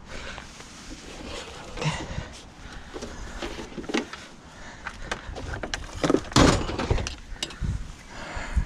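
Scattered knocks and clunks of hard objects being handled, with one louder, longer clunk about six and a half seconds in.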